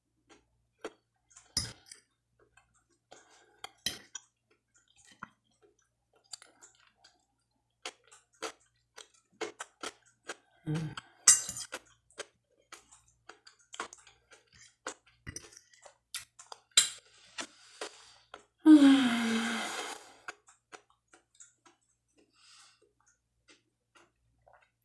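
Close-up chewing and mouth sounds of a person eating fried smoked linguiça sausage and cucumber salad: a string of short, irregular smacks and clicks. About nineteen seconds in comes one louder, breathy voiced sound, over a second long, falling in pitch.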